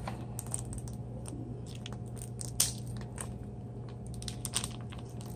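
Plastic food packaging being handled: scattered small crinkles and clicks over a steady low hum.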